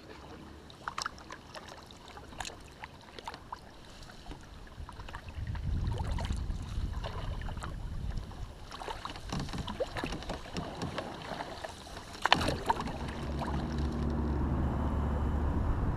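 Kayak on open water: water sloshing and splashing with scattered light knocks, and wind on the microphone swelling in about five seconds in. A sharp knock comes about twelve seconds in, then a steady low hum for the last few seconds.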